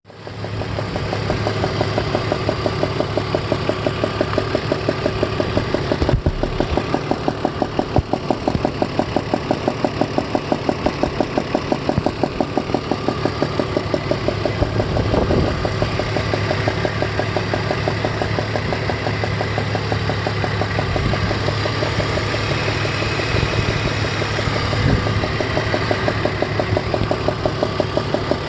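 BMW E46 330ci's 3.0-litre inline-six running with a steady, regular knock repeating several times a second over the engine note. The knock comes from a loose spark plug on cylinder 4 that could be turned by hand.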